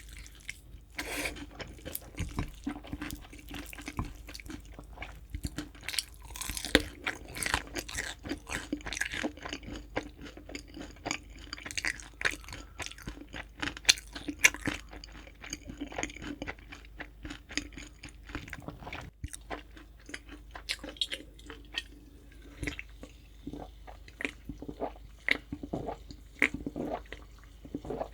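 Close-miked chewing of crispy fried chicken: dense, irregular crunching and crackling of the batter, with wet mouth sounds between bites.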